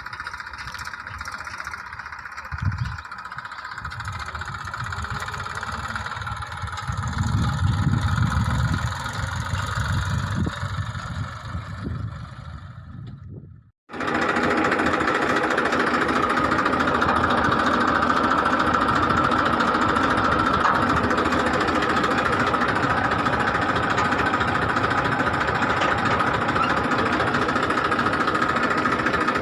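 Tractor engine running. Its low rumble swells for a few seconds about seven seconds in, then the sound breaks off briefly about fourteen seconds in and resumes steady and louder.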